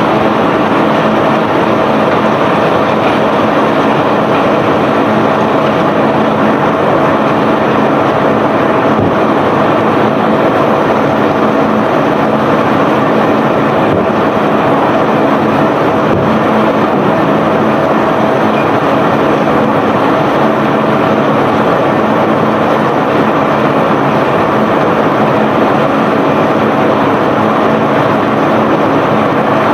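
Self-unloading barge's discharge machinery running steadily, an unbroken loud mechanical rumble with a steady hum over it.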